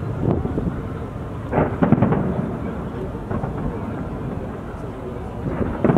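Fireworks going off in a series of deep booms over a continuous rolling rumble, with the loudest bursts about a second and a half in and again near the end.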